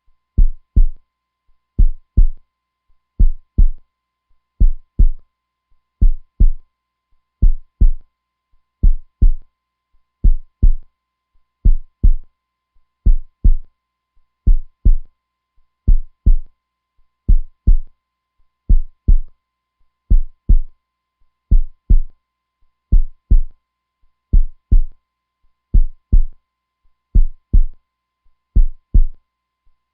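Heartbeat sound, a steady lub-dub: pairs of low, muffled thumps repeating evenly at about one pair every second and a half.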